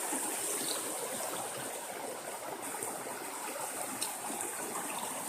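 River water flowing over large stones, a steady rushing, with one light knock about four seconds in.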